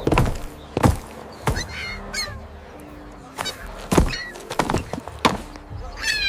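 A series of knocks or thuds, with short high chirps like a bird's or fowl's between them, over faint steady background tones.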